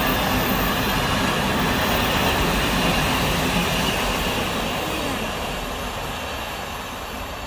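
Train passing through the station, a steady rumble and rush of wheels on rail that fades away over the last couple of seconds as it draws off.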